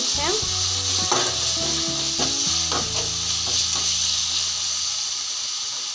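Onion, tomato and ginger-garlic paste sizzling in hot oil in a frying pan as a spatula stirs and scrapes it, with several scraping strokes in the first three seconds. The masala base is being sautéed until the raw ginger-garlic smell cooks off.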